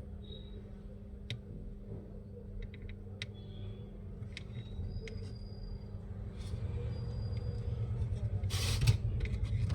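Scattered small clicks and taps of parts and tools being handled during an electronics repair, over a steady low hum, with a short scraping rush of noise near the end.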